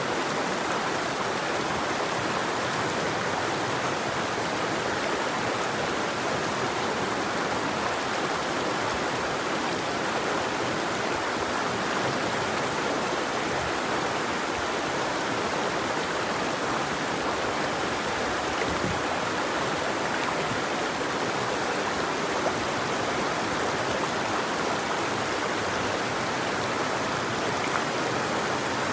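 River water flowing, a steady, even rush with no birdsong.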